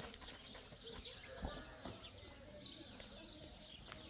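Faint chirping of small birds, many short falling chirps, with a soft knock about a second and a half in.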